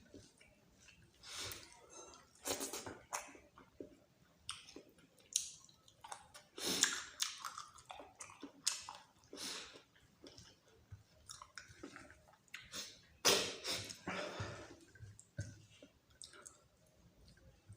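A person chewing and making wet mouth sounds while eating dal bhat with meat curry, in irregular short bursts, the loudest about a third and three quarters of the way through.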